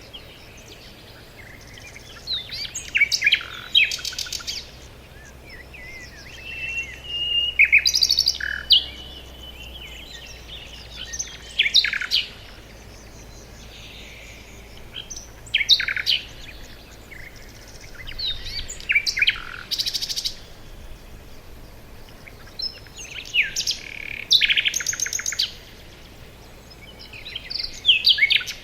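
Several birds singing in a forest, with song phrases and chirps coming in bursts every few seconds over a faint steady background hum.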